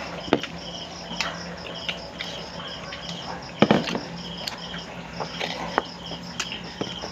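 Crickets chirping in a steady pulsed rhythm, with a few sharp clicks over it, the loudest about three and a half seconds in.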